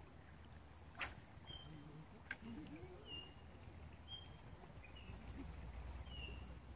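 A bird calling repeatedly with short, high whistled notes, about one a second, over a faint low rush of flowing river water. Two sharp clicks sound about one and two seconds in.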